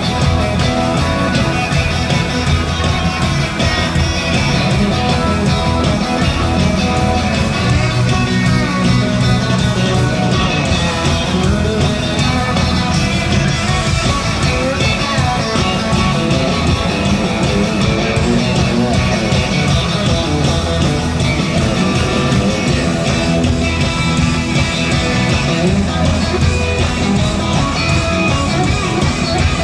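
Live rock band playing an instrumental passage, guitar to the fore over bass and drums, at a steady loud level without a break.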